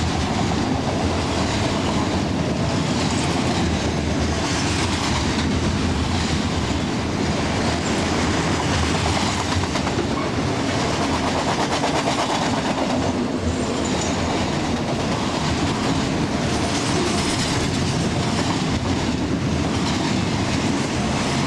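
Freight train of enclosed autorack cars rolling past at close range: a steady, loud rumble and clatter of steel wheels on the rails.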